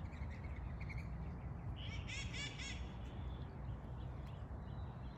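A bird gives a quick run of high call notes about two seconds in, lasting under a second, over a steady low background rumble.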